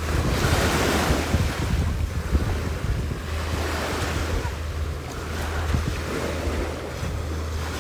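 Wind buffeting the microphone: a steady low rumble under a rushing noise that swells and ebbs every couple of seconds.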